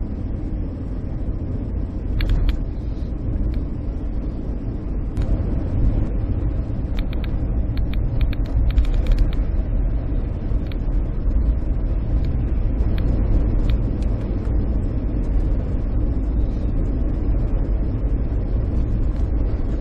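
Steady road and engine rumble inside a car driving along a highway, with tyres running on a lightly snow-covered road and faint scattered ticks.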